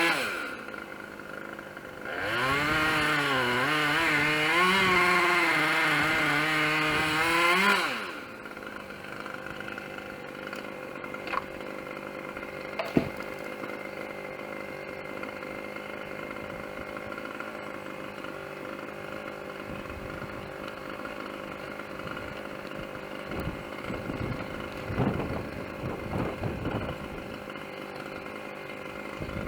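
Two-stroke chainsaw revved hard for about six seconds, its pitch wavering as it works under load, then dropping back to a steady idle for the rest of the time. A few light knocks and thumps sound over the idle near the end.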